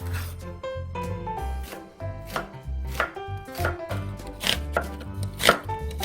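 Kitchen knife chopping ingredients on a cutting board, in irregular strokes that come closer together in the second half, over light background music.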